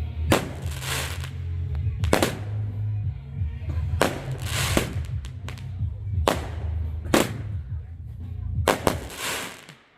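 Fireworks bursting in an irregular run of about ten sharp bangs, a couple of them trailing a longer crackling hiss, over a steady low rumble.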